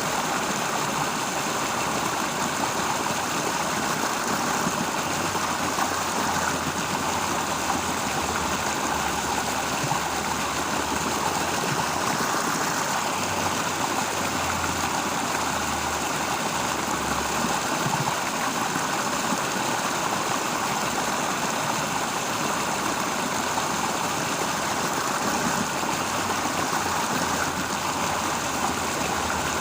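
Water of a stream flowing steadily, an even, unbroken rushing.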